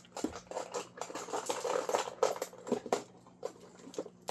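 Small metal parts being handled, clicking and rattling irregularly, with a faint steady hum underneath.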